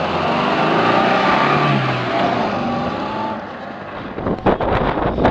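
Small 4x4's engine revving hard, its pitch rising and falling, as the wheels spin in soft sand while the stuck car is pushed. About four seconds in, this gives way to wind buffeting the microphone.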